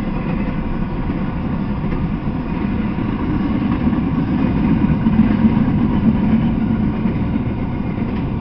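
Double-stack intermodal container train rolling past, a steady noise of wheels on rails and moving cars.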